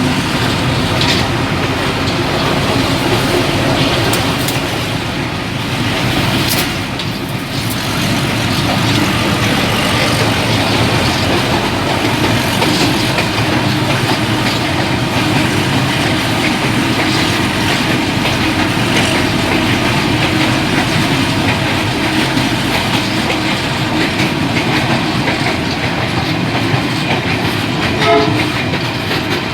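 Old passenger train running along the track, a steady rumble and rattle of the cars with scattered wheel clicks. A short, louder pitched sound stands out near the end.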